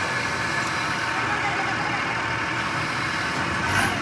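An engine running steadily at idle, with a short sharp clack near the end.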